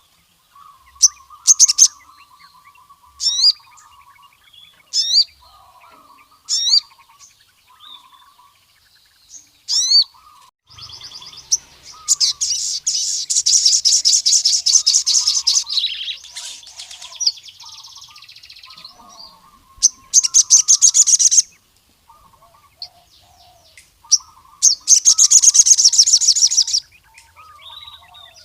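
Male sogon sunbird (Aethopyga) singing in full song, as it does when calling out rival males. Short, sharp upward-sweeping high notes come about every second and a half, broken by three long, fast, dense trills, with a lower chattering warble running underneath.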